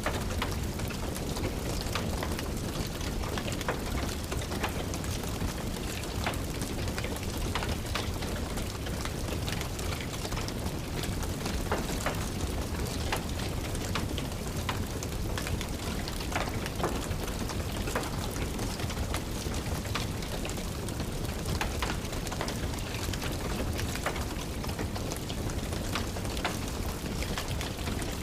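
Steady rain falling, with the irregular snapping and popping of a crackling wood fire in a fireplace over it.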